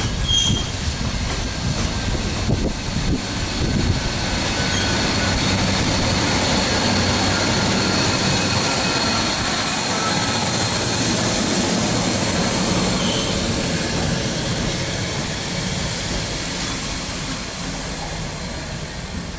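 A freight train of hopper wagons rumbles past, then a Class 153 single-car diesel multiple unit runs by close, loudest in the middle with a thin high wheel squeal over the rumble. The noise fades away toward the end.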